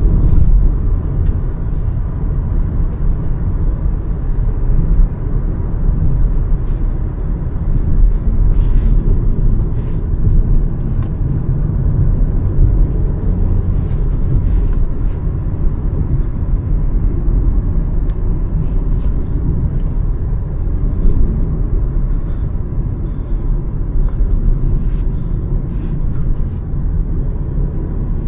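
Hyundai Verna's 1.5-litre turbo-petrol four-cylinder engine and road noise on the move, a steady low rumble with occasional faint ticks.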